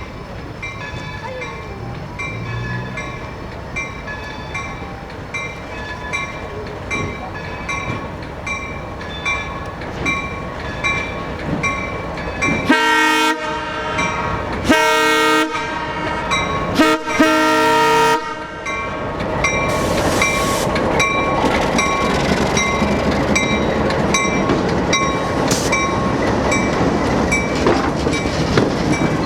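Locomotive bell ringing steadily, about twice a second, while the train rolls. About halfway through, the horn sounds three blasts, the last the longest. After that the train's running noise and wheel clatter grow louder as it passes close by.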